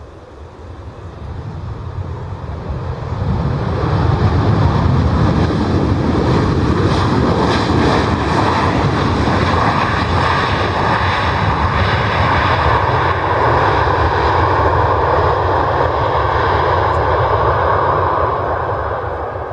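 Airliner engines running loud, building over the first four seconds, holding steady, then easing slightly near the end.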